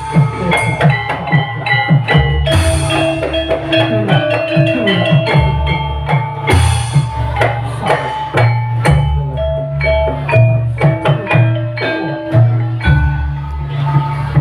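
Live percussion-heavy music: drums beating steadily under ringing pitched mallet-struck notes.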